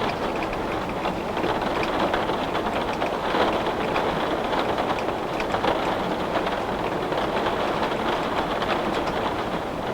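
Heavy rain falling steadily on a window pane: a dense, even patter of drops on the glass.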